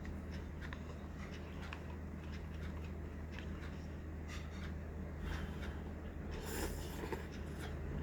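Quiet eating and handling sounds: small scattered clicks and taps, with a brief louder noisy rustle about six and a half seconds in, over a steady low electrical hum.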